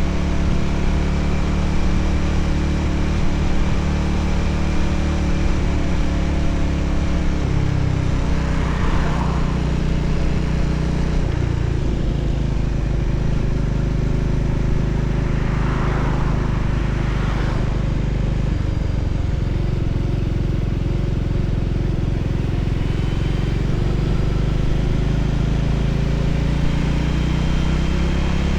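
Voge 300ACX motorcycle's single-cylinder engine running steadily under way, with road and wind noise. The engine note shifts a couple of times in the first half, and two brief rushing swells pass by, about nine and sixteen seconds in.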